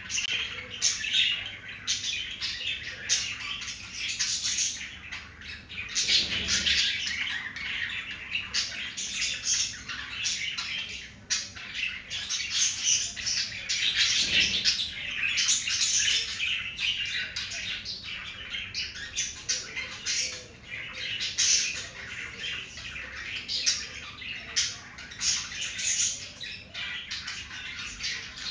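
Budgerigars chattering without a break, a stream of short scratchy squawks, chirps and clicks.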